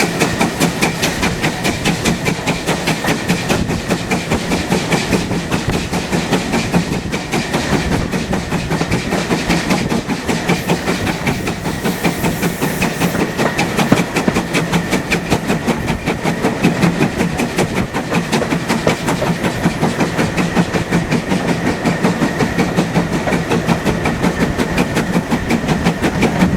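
Heritage passenger train running steadily behind GWR Modified Hall steam locomotive 7903: a continuous rumble of wheels on rail with a quick, even beat.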